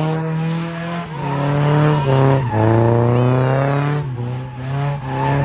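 Car engine accelerating hard through the gears: the pitch climbs and then drops sharply at each shift, three shifts about a second and a half apart.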